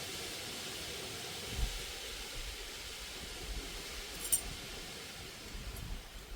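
Brake parts and tools being handled over a steady background hiss: a few low knocks and one small sharp metallic clink about four seconds in.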